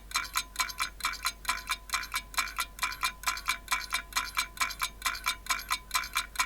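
Quiet, stripped-back passage of the background music: an even, fast ticking with a light chime-like ring, about five strikes a second.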